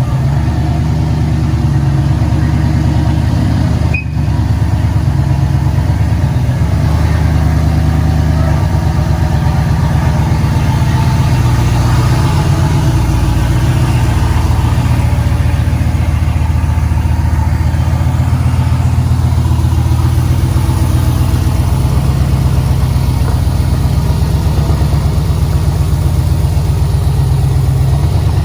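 2nd-gen Dodge Ram V8 running at a steady idle on open headers, with a fast, even exhaust pulse and a brief dip about four seconds in.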